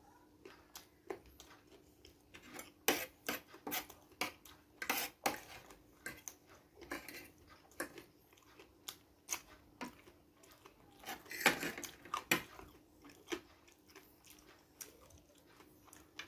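A person chewing and eating close to the microphone: irregular wet clicks and smacks, loudest about three seconds in and again about eleven seconds in.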